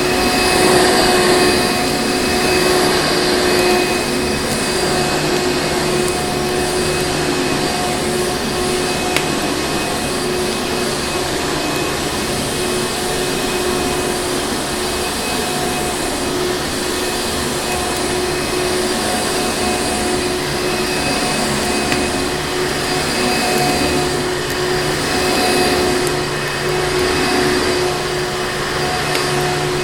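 Electric vacuum cleaner running steadily: a continuous rushing noise with a motor whine held at one pitch throughout.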